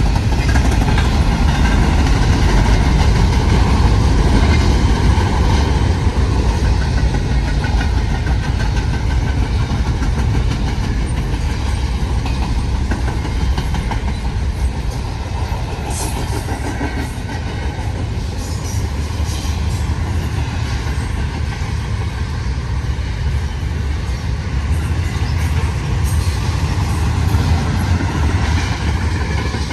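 Intermodal freight cars of a long CN freight train rolling past: a steady, loud rumble of steel wheels on rail, with a few sharp clicks partway through.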